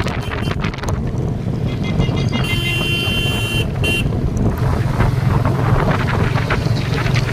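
Royal Enfield motorcycle engine running under way, with wind buffeting the microphone. A horn sounds for about two seconds near the middle.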